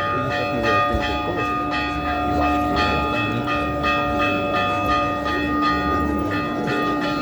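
Church bells pealing, struck in quick repeated strokes with their tones ringing on between them.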